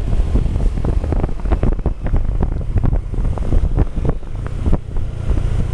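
Wind buffeting the microphone of a camera carried on a moving motorbike, heavy and gusty, over a low rumble from the ride.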